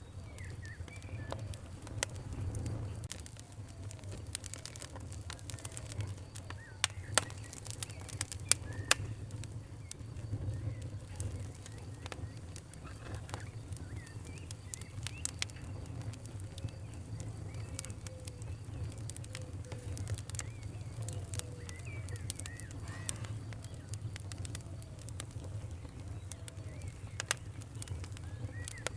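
Wood fire crackling, with scattered sharp pops over a steady low rumble of burning; a few pops stand out louder, about a third of the way in and near the end.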